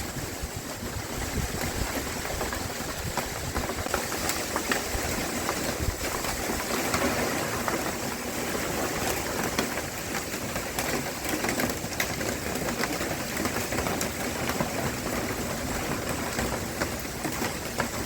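Hurricane Ian's wind blowing hard with rain: a steady rushing noise with scattered small ticks and taps.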